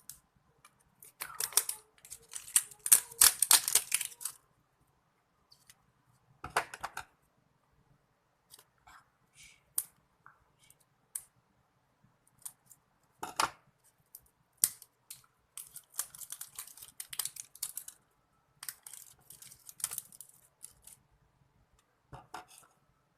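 Plastic toy packaging being opened by hand, crinkling and crackling in irregular bursts with pauses between, loudest about two to four seconds in.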